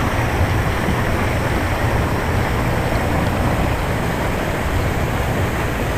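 Steady rushing noise of a swimming-pool waterfall pouring into the pool.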